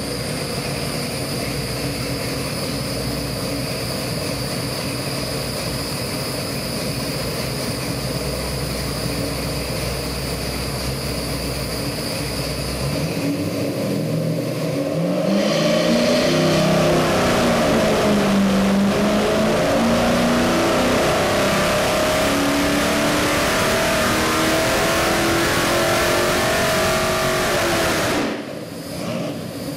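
Chrysler 440 big-block V8 crate engine with MSD Atomic EFI running at a steady idle, then revved up about halfway through. Its pitch swings up and down before being held at higher revs, louder, then dropping back near the end.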